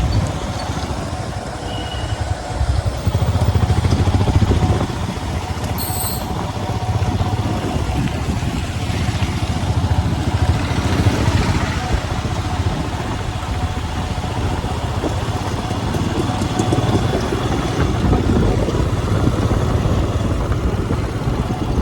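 Motorcycle engine running steadily under way, with road and wind noise; a brief high-pitched chirp about six seconds in.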